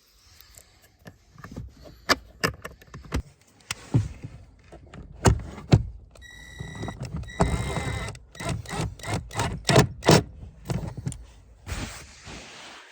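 A run of sharp clicks and knocks from handling the car's interior trim during a cabin filter change, with a steady high beep about six seconds in.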